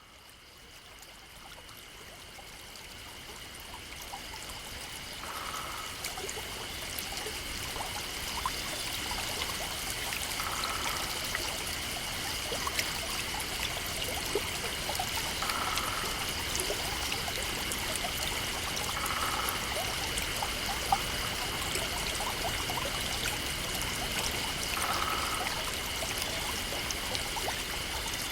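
Stream water trickling and splashing, fading in over the first few seconds and then running steadily. A steady high-pitched tone is held throughout, and a short call repeats about every five seconds.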